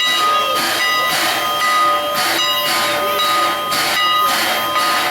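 Strasburg Rail Road engine 89, a 2-6-0 steam locomotive, chuffing steadily about twice a second, its exhaust beats hissing, with steady high ringing tones over it.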